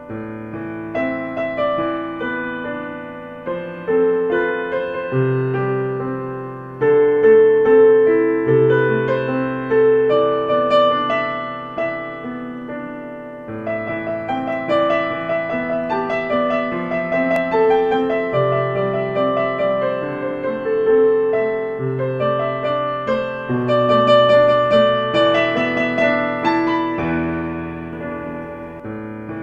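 Slow, gentle piano music: soft chords with a melody of notes that ring and fade, in a calm ambient style.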